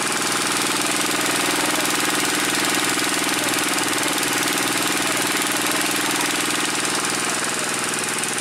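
A vehicle engine running steadily at constant speed, an even hum under a dense hiss that does not change.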